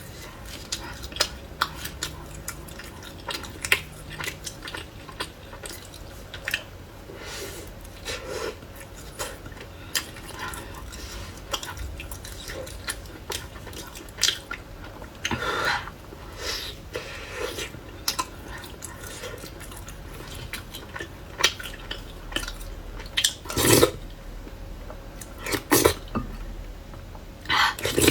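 Close-up eating sounds: chewing with scattered small clicks, and utensils clinking against dishes, with a few louder clinks near the end.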